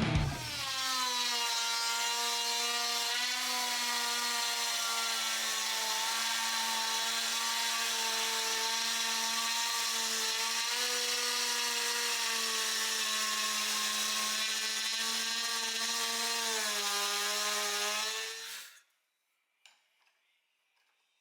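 Electric power tool running steadily on wood, a whining motor with many overtones. Its pitch dips briefly under load near the end, then it winds down and stops about 18 seconds in.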